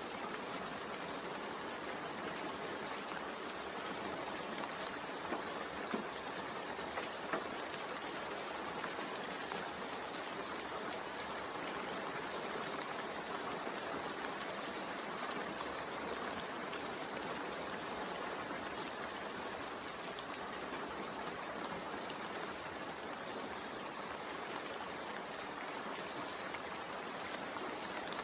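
Recorded rain ambience: a steady, even hiss of falling rain, with a few brief louder ticks about five to seven seconds in.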